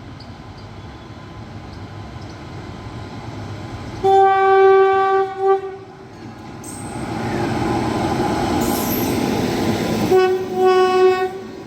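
Electric locomotive horn sounding two blasts about six seconds apart, each lasting a second or two. Between the blasts the running noise of the approaching train grows louder.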